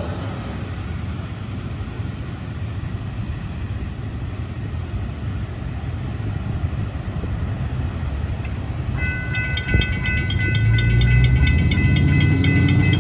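Rumble of a double-stack intermodal freight train's cars rolling on the rails, fading as the end of the train moves away. About nine seconds in, a steady high-pitched ringing with rapid ticks starts, and low vehicle engine noise rises near the end.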